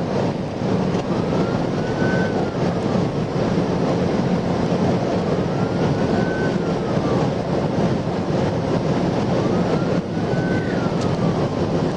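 Police cruiser's siren on a slow wail, rising and falling about every four seconds, over heavy road and wind noise from the car running flat out at around 130 mph in pursuit.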